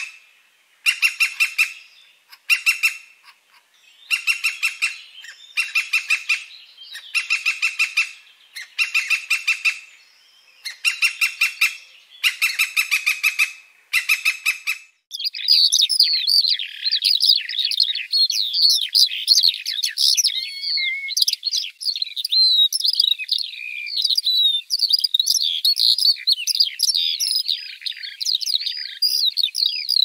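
Birds calling. First come short, rattling bursts of rapid notes, about one a second. About halfway through, this changes to a dense, continuous high twittering and chirping of small birds.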